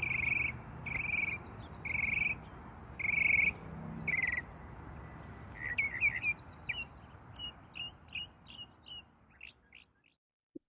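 Birds calling: a short, clear call repeated about once a second, then a quicker run of short chirps that fades out near the end, over a steady low outdoor background noise.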